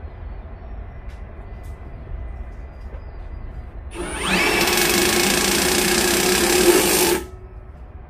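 Electric drill spinning up about halfway through and boring a bolt hole for about three seconds, then stopping abruptly.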